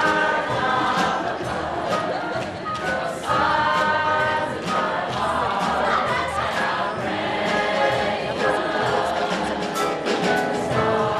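A stage-musical cast singing a choral number together, many voices at once with musical accompaniment.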